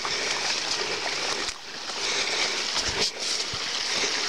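Steady rush of rain and splashing water, dipping briefly twice.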